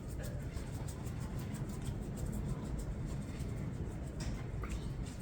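Low steady background hum with a couple of faint light clicks about four seconds in, from small carburetor parts being handled during disassembly.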